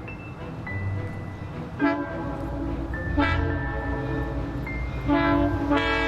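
Model diesel locomotive's sound unit blowing its horn in several short blasts, about two and three seconds in and twice more near the end, over the steady low rumble of the locomotive running.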